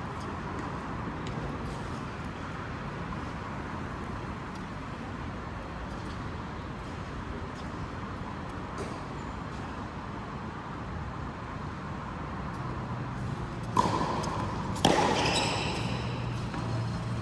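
Steady background noise, then two sharp knocks about a second apart near the end, the second ringing briefly.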